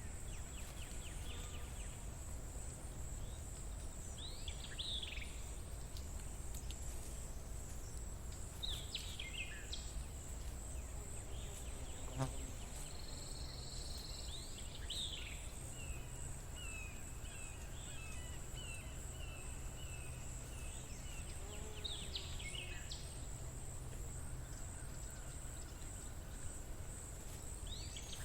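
Nature ambience: a steady high-pitched insect drone with bird calls over it. The birds give short falling chirps every few seconds and, around the middle, a run of quick repeated notes, all over a low background rumble.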